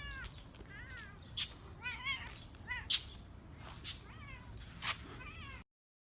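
Domestic cat giving a series of short, high meows, with a few sharp clicks between them; the sound cuts off suddenly near the end.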